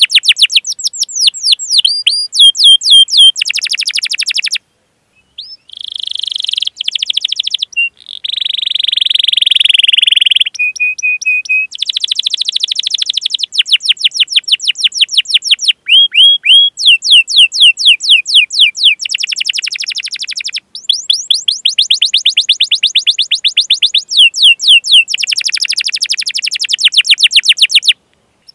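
Domestic canary singing a long song of fast rolling trills, runs of quickly repeated falling notes, broken by short chirps and a brief buzzy trill, with a few short pauses.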